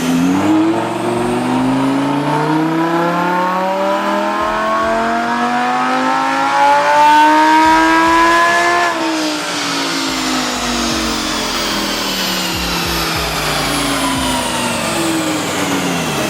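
Lamborghini Huracán LP610-4's 5.2-litre V10 breathing through an iPE Innotech exhaust, making a single long dyno pull. The engine pitch climbs steadily for about nine seconds to high revs, then falls away smoothly as it runs back down.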